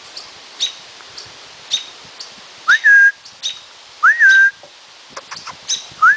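Short, sharp bird calls about once a second, the alarm of an annoyed American robin, with three loud whistles about a second and a half apart, each sliding up and then held level.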